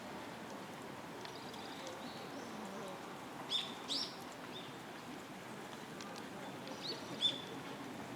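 Short, high-pitched animal chirps, two quick pairs about halfway through and near the end, over a faint steady outdoor background.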